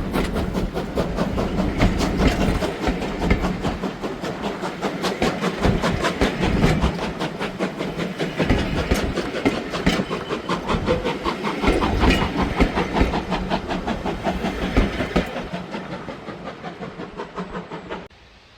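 A train running past, its wheels clattering rapidly over the rails with a steady hiss underneath. The sound fades gradually as it moves away and then cuts off abruptly near the end.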